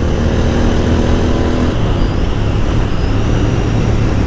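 Royal Enfield Interceptor 650's parallel-twin engine running at speed through an aftermarket Motowings exhaust, with rushing wind noise. The engine note holds steady, then changes a little under two seconds in.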